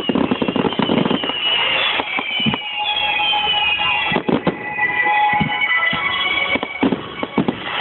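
Fireworks going off in a display: a run of repeated bangs and crackle, with thin falling whistle-like tones above them.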